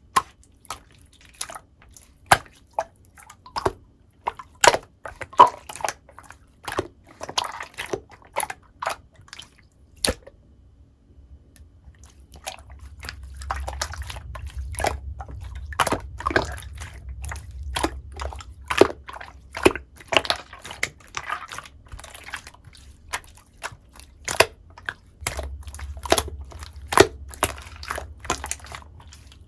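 Clear slime being squished and pressed by hand, making irregular sticky pops and clicks. A low rumble comes and goes under it in the second half.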